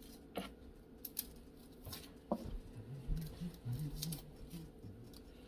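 Garlic cloves being peeled by hand with a knife: scattered small clicks and crackles of the papery skin and the blade.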